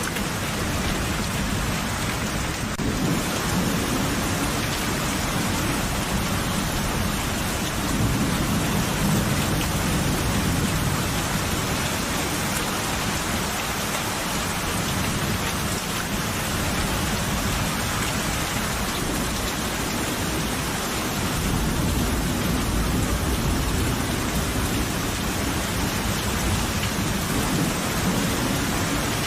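Steady heavy rain with low rolling thunder that swells several times, around three seconds in, from about eight to eleven seconds, and again past twenty seconds.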